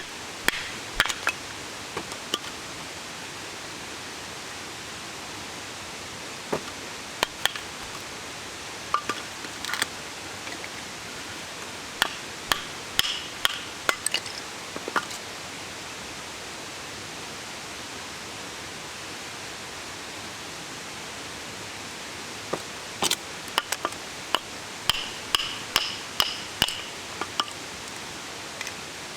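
Groups of sharp clinks and taps of hard objects handled one against another, a few of them ringing briefly like metal or glass, over a steady rushing hiss. The clinks come in bursts, with a quiet stretch in the middle where only the hiss is heard.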